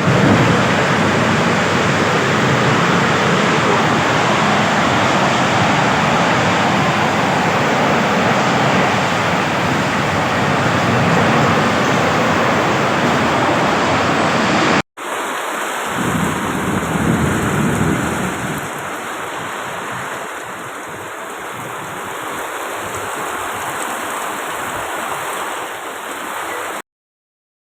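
Loud, steady storm noise of strong wind and heavy rain. It breaks off sharply about halfway through, resumes somewhat quieter, and stops abruptly just before the end.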